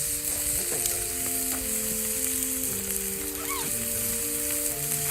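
Meat sizzling as it cooks, a steady hiss, under background music: a simple melody of plain held notes.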